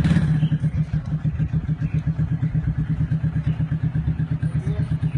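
A vehicle engine idling close by: a steady, even throb of about ten pulses a second.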